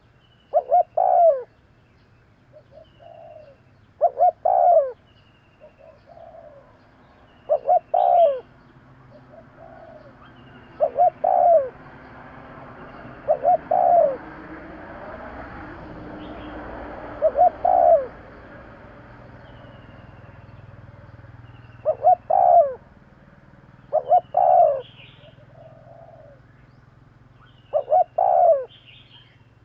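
Spotted dove cooing, a short two- or three-note phrase repeated about every three to four seconds. Faint short high chirps of another small bird come between the coos.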